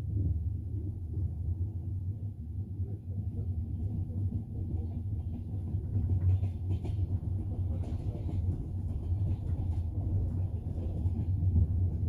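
Double-decker passenger train running along the rails, heard from inside the carriage: a steady low rumble of wheels and carriage, with a few faint clicks about halfway through.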